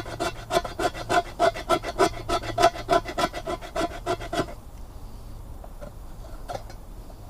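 Knife blade scraping a stick of fatwood to make tinder shavings, in quick, even strokes about four or five a second, stopping about four and a half seconds in.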